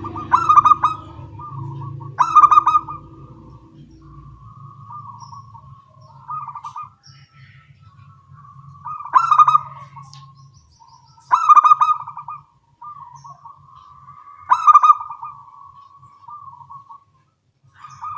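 Zebra doves (local perkutut) cooing and answering one another. Five loud rolling coo phrases stand out, the first two close together and the rest a few seconds apart, with softer coos between them.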